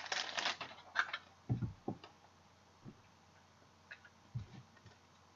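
Trading cards and plastic card holders being handled on a table: a brief rustle, a sharp click about a second in, then a few soft low thumps and light ticks.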